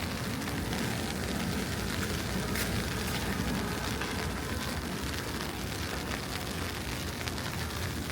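Steady city street noise: a low, even hum of traffic with a few faint ticks.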